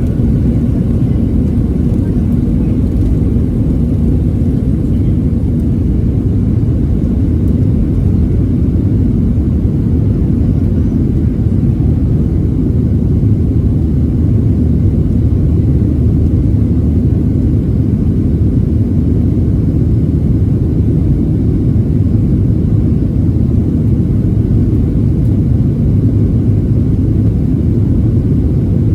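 Steady loud low rumble of a Boeing 737-700's CFM56-7B jet engines and airframe, heard inside the passenger cabin during takeoff and climb.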